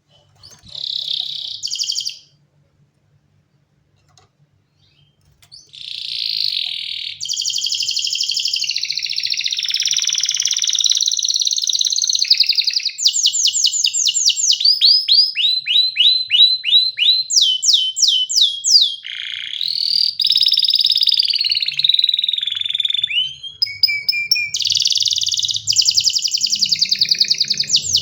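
Domestic canary singing: a short phrase about a second in, then after a pause a long unbroken song of rolling tones and fast trills of rapidly repeated, sweeping notes.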